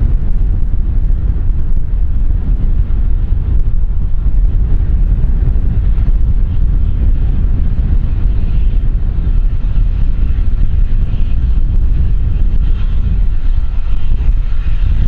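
Jet aircraft engine noise with a steady low rumble. A faint high turbine whine comes in about halfway through and grows toward the end. Wind buffets the microphone throughout.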